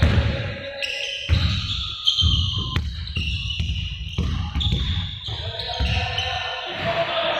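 Many balls bouncing on a hard court, dense and overlapping, with short high squeaks and voices echoing in a large hall.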